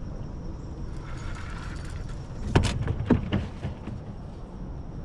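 Wind buffeting the microphone as a steady low rumble, with a quick run of clicks and knocks from handling the fishing gear about two and a half to three and a half seconds in.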